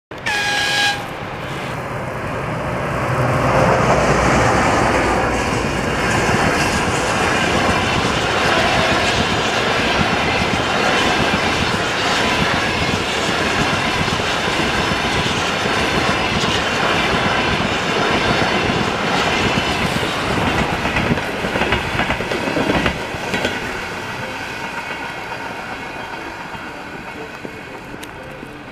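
EP20 electric locomotive and its passenger coaches passing at speed: a brief horn note right at the start, then the loud rush and clatter of wheels on rail as the locomotive and a long line of coaches go by. The sound fades over the last few seconds as the train moves away.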